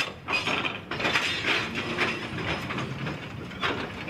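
Freight boxcars and an old coach rolling slowly during shunting, their wheels, couplers and running gear clanking and rattling. There is a brief high squeal about half a second in and a sharper clank near the end.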